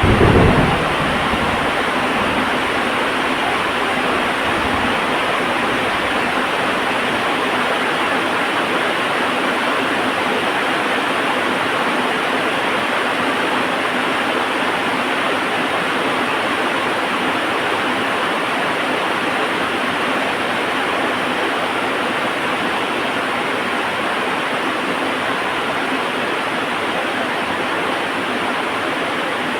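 Heavy rain falling steadily, an even unbroken hiss. A short low rumble swells and fades in the first second.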